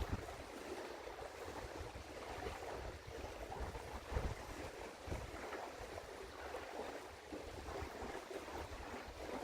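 Wind rumbling on an outdoor microphone in gusts, strongest about four and five seconds in, over a steady outdoor hiss.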